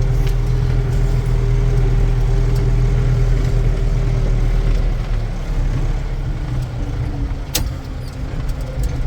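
Case 844 XL Plus tractor's diesel engine running steadily while driving slowly, heard from inside the cab; about five seconds in the engine note drops as it eases off. A single sharp click near the end.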